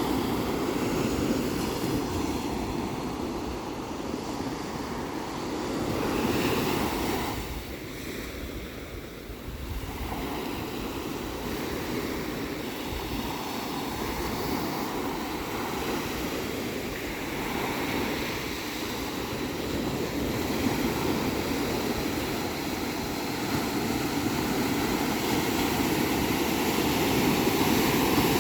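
Ocean surf: waves breaking and washing in a continuous rush that swells and eases every few seconds, with a brief lull about eight seconds in.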